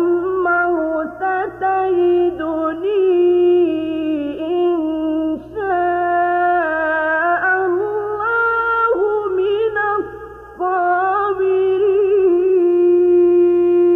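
A solo male voice chanting Quranic recitation (tajwid) in long, ornamented held notes with melismatic turns, breaking off briefly for breath about ten seconds in.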